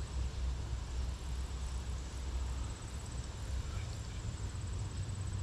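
Steady low rumble of highway traffic, with an insect trilling high and steady over it.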